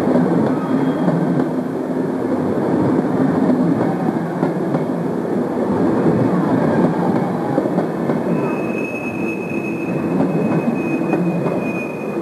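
Passenger coaches rolling past, a steady rumble of wheels on the rails. About two-thirds of the way through a wheel squeal sets in, one steady high tone that lasts almost to the end.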